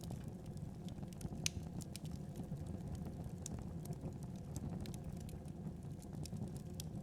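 Wood fire in a fireplace crackling: scattered sharp pops and snaps over the low steady rush of the flames, the loudest pop about one and a half seconds in.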